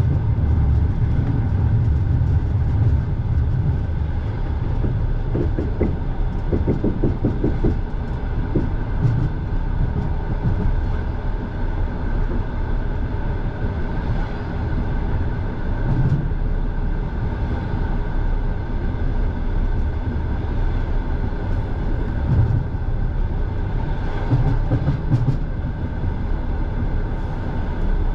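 Russian Railways passenger train running on the rails: a steady rumble of the carriage, with a run of quick wheel knocks over the rail joints a few seconds in.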